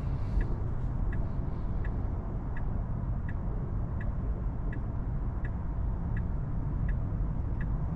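Turn-signal indicator of a 2024 Tesla Model 3 ticking steadily, about three ticks every two seconds, as the car signals for a U-turn, over a low steady road rumble inside the cabin.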